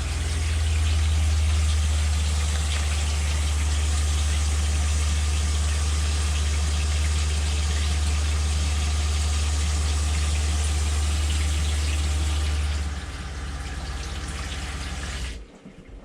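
Travel trailer's fresh-water pump running with a tap open: a steady low hum under the hiss of water flowing out as cleaner is flushed through the lines. The hum drops about thirteen seconds in, and the flow stops suddenly near the end.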